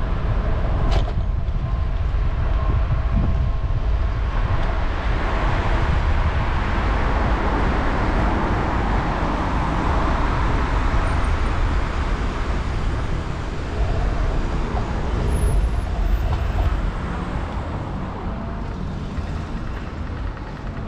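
Steady city street noise from a moving bicycle: traffic and a constant low rumble, with a single sharp click about a second in.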